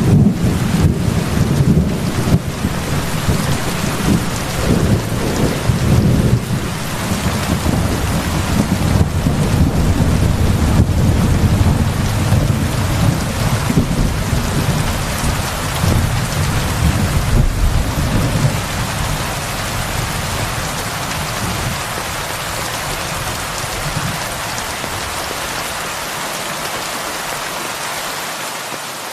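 Heavy rain falling steadily, with a long low roll of thunder rumbling under it that fades away over the last third.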